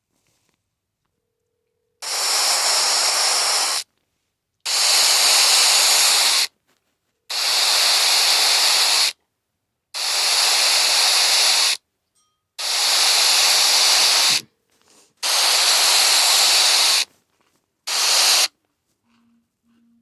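A phone ringing with bursts of static hiss in place of a ring tone: about two seconds of hiss, then a gap of under a second, repeated six times, with a short seventh burst near the end.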